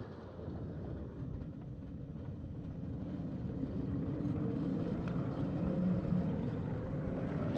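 5-inch gauge ride-on garden railway train running along the track, a steady rumble of wheels on the rails that grows a little louder as it goes.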